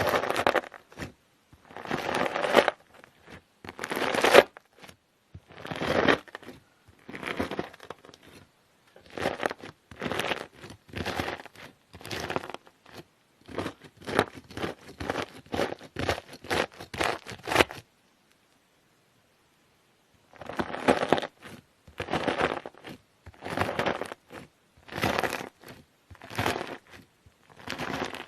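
A knife cutting through crunchy slime, each stroke a burst of crackling crunches. The strokes come about once every second or so, with a short silent break about two-thirds of the way through.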